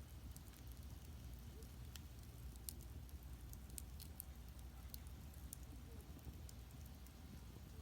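Firewood burning in an agungi, the firebox of a traditional Korean furnace: faint, scattered crackles and pops over a steady low rumble.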